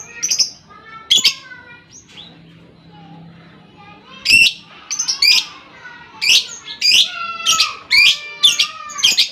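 Lovebird chattering in shrill chirps, scattered at first, then a fast run of loud chirps from about four seconds in. This is the long chatter ('ngekek panjang') used as bait sound to excite other lovebirds.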